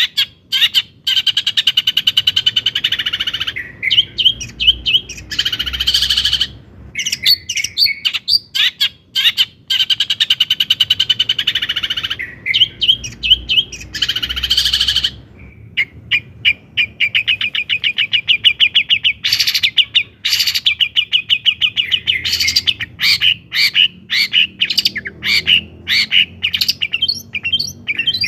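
Long-tailed shrike (cendet) singing loudly: a busy, chattering song of fast trills and rapid staccato notes, with phrases repeated after short pauses and a long run of quick trilling about two-thirds of the way through.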